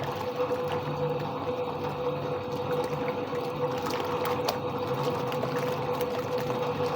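Soviet washing machine running through a wash: a steady motor hum with water churning, and a few faint clicks.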